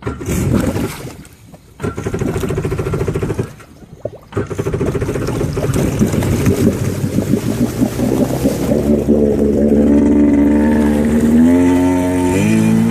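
1990 Kawasaki 650 engine cold-starting. The starter cranks it in two short bursts, and the engine catches on the third try about four seconds in and keeps running. The revs rise from about nine seconds, with a quick blip near the end.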